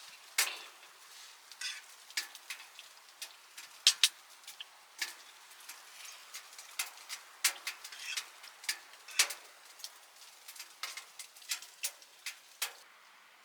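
Firewood crackling and popping in a small wood-burning tent stove: irregular sharp snaps, a few a second and no steady rhythm, which stop shortly before the end.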